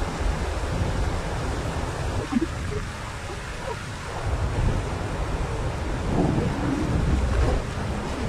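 Wind buffeting the microphone, a gusty low rumble over a steady hiss.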